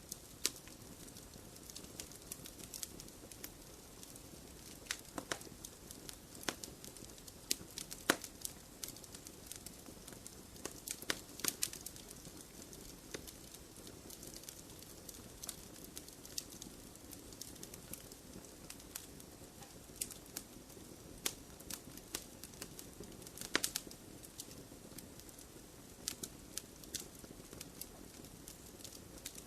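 Wood fire crackling, with a steady low hiss and irregular sharp pops and snaps, a few louder ones around eight seconds in and near two-thirds through.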